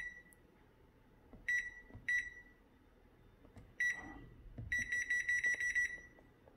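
Electronic beeps from a kitchen appliance's control panel as it is set to preheat: four single beeps spaced a second or two apart, then a quick run of about ten beeps lasting just over a second.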